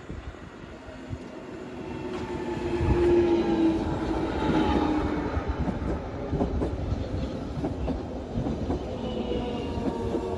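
Jubilee line 1996 Stock tube train braking to a stop, its rumble building about two seconds in under several whining tones that slowly fall in pitch as it slows. This is the odd-sounding brake noise this stock makes when stopping.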